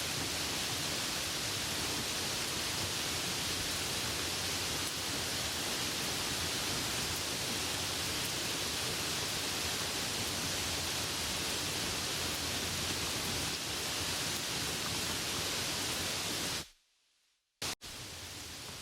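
Steady rain, an even hiss; near the end it cuts out to silence for about a second and comes back a little quieter.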